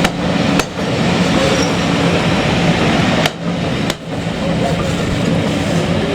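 A train running past at close range: a loud, steady rumble with a low hum, broken by a few sharp clanks, typical of wheels crossing rail joints.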